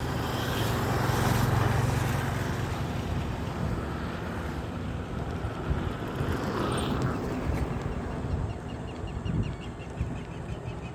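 A motor engine running, loudest a second or two in and then fading, over wind noise on the microphone.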